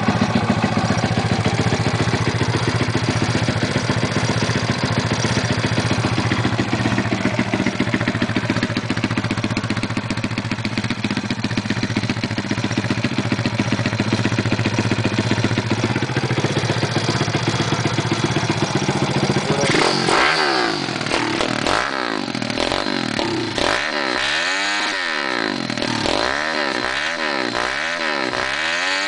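Kawasaki KLX110 single-cylinder four-stroke engine, fitted with a 143cc big bore kit and a Yoshimura exhaust, running steadily for about twenty seconds. Then it is revved up and down repeatedly, the pitch rising and falling eight or so times.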